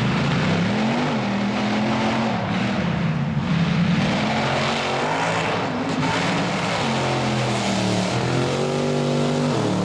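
Mega mud truck's engine revving hard at high revs, its pitch climbing and dropping again and again as the throttle is worked. The sound changes abruptly near the end.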